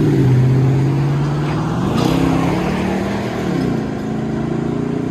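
Toyota Tundra's 5.7-litre V8 running through a dual exhaust with a Magnaflow muffler. The engine pitch climbs about two seconds in and drops back a second or so later, and the sound eases slowly.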